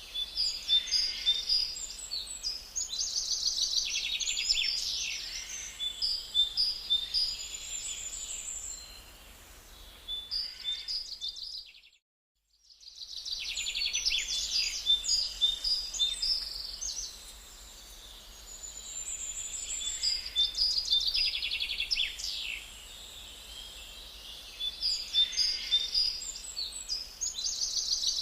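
Forest songbirds singing and calling, a dense mix of quick trills and short chirps. The sound cuts out to silence for about a second near the middle, then comes back.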